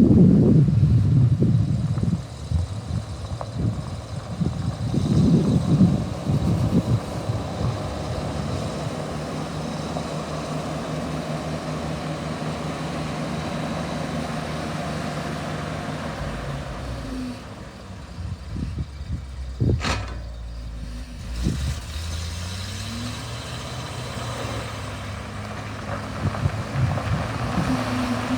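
1977 Ford LN600 grain truck engine running, with louder surges in the first few seconds, then settling to a steady idle. A single sharp click comes about twenty seconds in.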